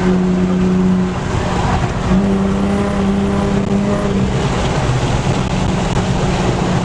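Car engine and exhaust running at a steady cruising speed as a steady drone. The drone drops away for about a second, about a second in, then picks back up.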